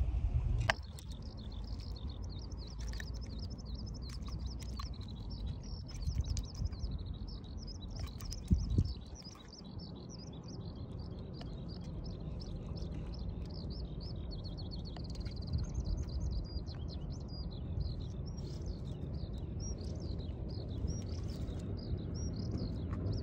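Small birds chirping rapidly and without a break, over a steady low background rumble, with one short thump about eight and a half seconds in.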